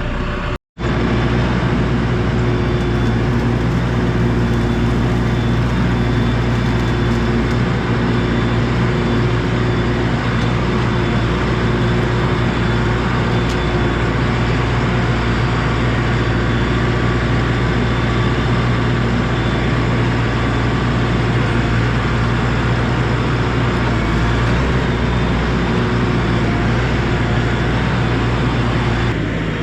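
A 73 hp LS tractor's diesel engine running steadily at an even throttle. The sound cuts out completely for a moment just under a second in.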